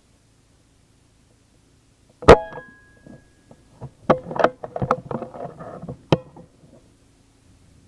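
A single sharp gunshot crack about two seconds in, followed by a brief metallic ring. About two seconds of clattering, knocking and rustling follow, ending in another sharp knock.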